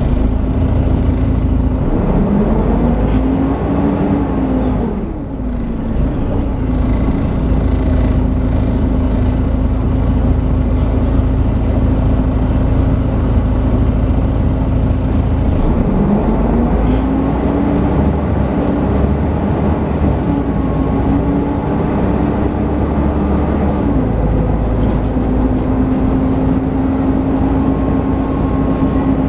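Volvo B7TL double-decker bus's Volvo D7C engine running with its steady 'hoover' whine. The whine sweeps up and back down in pitch twice, briefly and then for several seconds, as the bus pulls through the gears.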